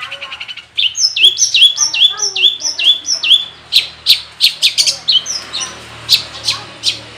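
Long-tailed shrike singing a varied mimicking song: a fast trill stops just under a second in, followed by a run of about eight falling whistled notes, about three a second, then sharp, harsh chips spaced unevenly.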